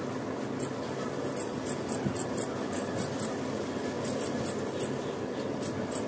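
Small birds chirping: quick, very high-pitched chirps, irregular at a few a second, over a steady background hum.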